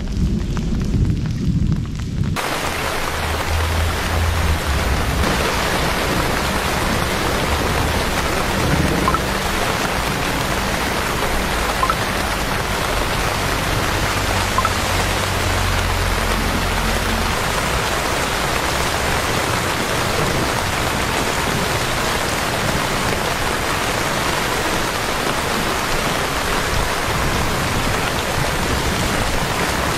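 Heavy rain falling on paved streets: a steady, even hiss that starts suddenly about two seconds in. A low steady hum runs underneath until about halfway through.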